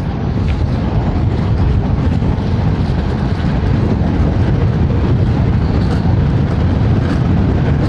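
Steady, loud wind rumble on the microphone of a moving electric scooter riding into a headwind.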